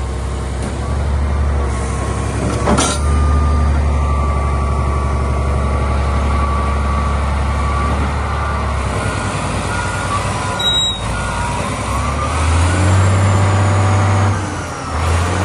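Caterpillar D11T crawler dozer's diesel engine (a Cat C32 V12) running, with a steady low drone and a whine. About three seconds in there is a sharp click, and about twelve seconds in the engine speed rises to a higher pitch.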